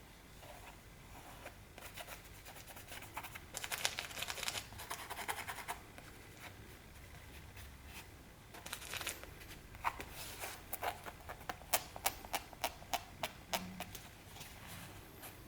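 Hands handling a running shoe: scratchy rustling and rubbing against the shoe, then a quick run of light clicks or taps, about three a second, in the second half.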